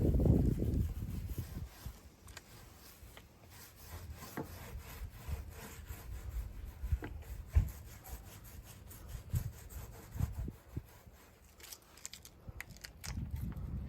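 Hand work rubbing and scraping irregularly on a hard surface, with scattered knocks and clicks. A louder low rumble comes in the first second.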